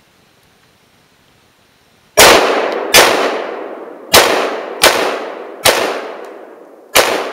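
Six single rifle shots from an AK-47 (7.62×39 mm) fired one at a time at an uneven pace, starting about two seconds in, each followed by a long echo that fades away.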